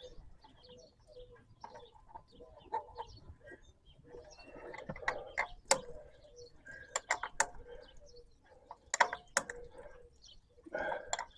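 Scattered sharp clicks and clinks of hand tools and metal fuel-system parts being handled and tightened, the loudest in small clusters midway and near the end. Birds chirp and a dove coos in the background.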